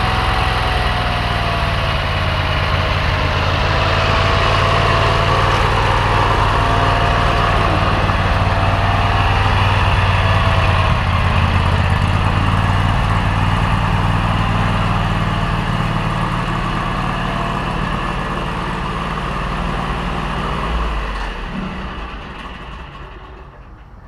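Lawn tractor's Predator 670 cc V-twin engine running steadily, then fading out near the end.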